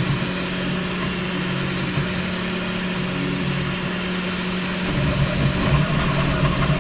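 Bambu Lab P1S 3D printer running fast through infill: a steady hum and whine of its motors, growing a little busier and louder after about five seconds. It has a weird sound to it, which the owner takes for something loose inside, perhaps the gantry axis or the Z axis.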